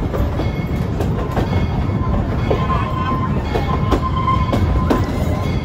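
Narrow-gauge passenger train rolling along the track, its wheels clacking over rail joints at an uneven beat under a steady rumble. A thin, high wheel squeal runs through the middle.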